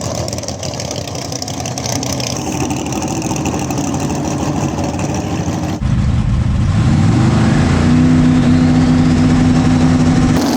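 Drag-race car's engine running. About six seconds in the sound jumps louder, the pitch climbs for a second or so as the engine accelerates hard, then holds at a steady high note.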